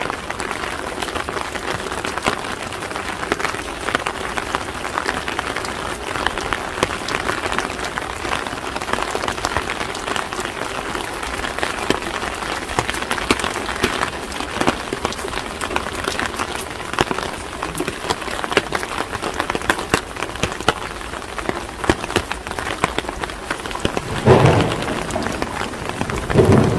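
Steady rain pattering on street surfaces, a dense patter of many small drops. Two brief louder, lower sounds stand out near the end.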